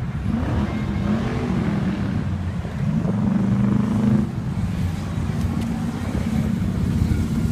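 Car engines rumbling steadily in slow traffic, with one engine's pitch rising and then settling about three seconds in, as if briefly revved.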